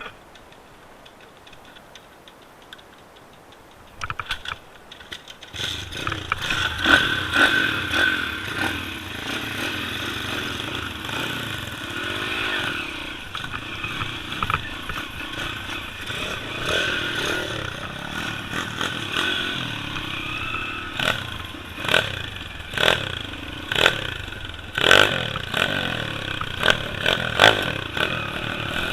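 Pit bike's small single-cylinder engine starting about five seconds in after a few knocks, then running with the revs rising and falling. In the second half, repeated short sharp throttle blips and knocks stand out above the engine.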